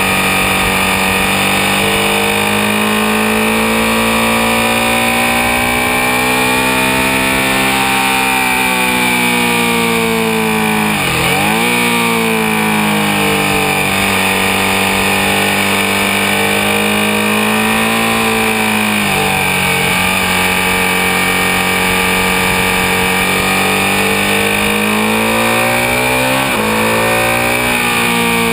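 Ducati 1199 Panigale's V-twin engine at racing speed on track, the revs climbing through a long pull. About eleven seconds in the pitch drops sharply and climbs again as the bike brakes and accelerates out of a corner. There are further gear changes later, with a steady rush of wind over the engine.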